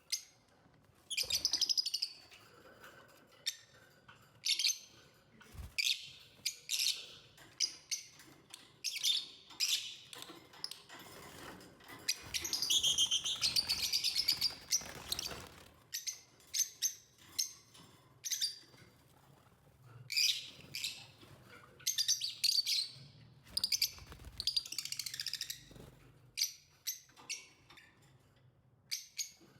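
Lovebirds chirping and chattering: a string of short, sharp high chirps, with a longer run of rapid chatter midway and another near the end.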